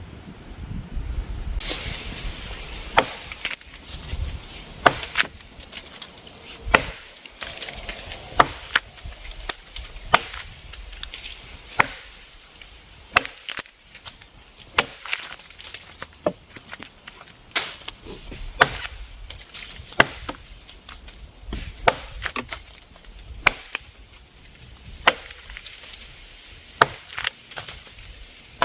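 Wolf Valley Forge axe chopping into a wooden limb, with sharp strikes coming about once a second.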